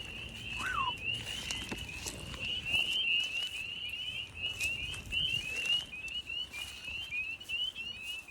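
Chorus of spring peepers: many frogs giving short, rising peeps that overlap into a steady, dense chorus.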